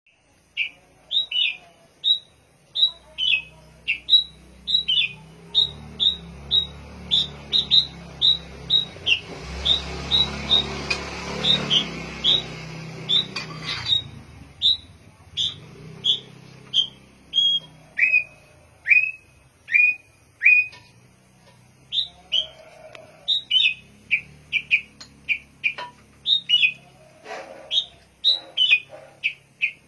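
A songbird calling over and over with short, sharply falling chirps, about one or two a second, the calls dropping a little lower in pitch for a few seconds past the middle. A faint low hum in the background grows stronger around the middle.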